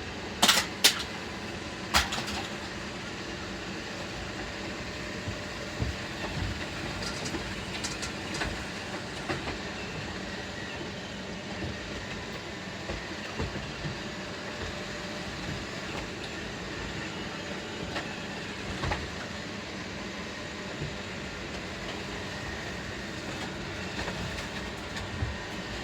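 Several robot vacuums running together with a steady whir, with sharp knocks: three loud ones in the first two seconds and smaller ones scattered later.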